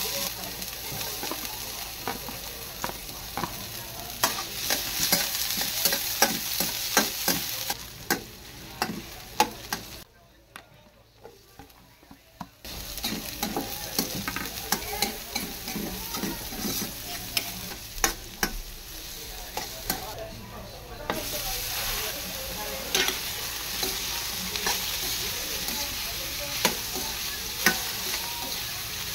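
Chopped ginger, onion and pork frying in oil in a stainless steel wok: a steady sizzle, with a metal utensil stirring and clacking against the pan. It drops away for a couple of seconds about a third of the way through.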